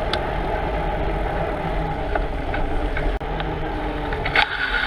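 Steady wind and road noise from a bicycle being ridden, with a few faint clicks and a brief higher-pitched hiss near the end.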